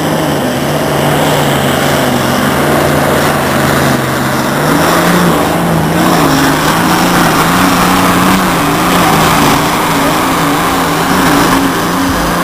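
Tractor-pulling engine running hard under steady load. Its pitch rises slightly about five seconds in and then wavers up and down.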